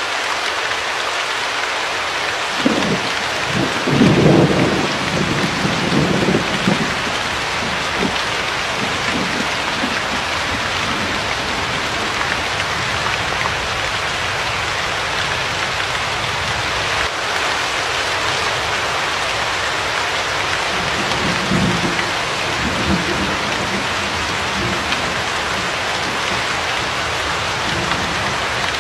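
Steady heavy rain, with low rolls of thunder rumbling a few seconds in and again about two-thirds of the way through.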